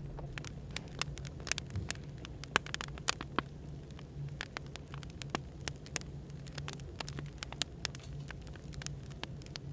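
Wood fire crackling, with frequent sharp irregular pops and snaps, over a steady low hum of background ambience.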